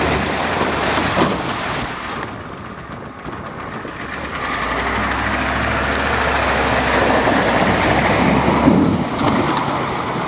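Ford truck's engine running hard as it drives through deep snow and ice, with loud rushing noise. The engine holds a steady note through the middle.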